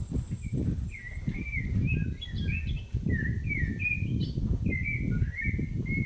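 A songbird singing a run of quick warbling notes that rise and fall, starting about a second in. Beneath it is a constant low rumble, and a thin high steady tone stops about a second and a half in.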